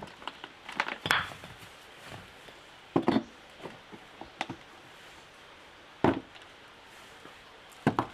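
Wood being struck: four separate chopping knocks a couple of seconds apart, the loudest about 6 seconds in.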